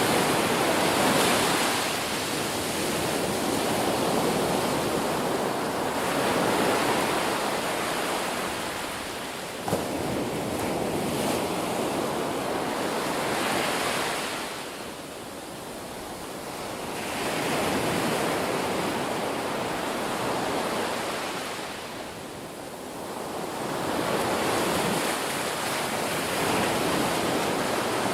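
Ocean surf washing ashore: wave after wave swells and falls away, a new surge every five to seven seconds, with a short lull between them.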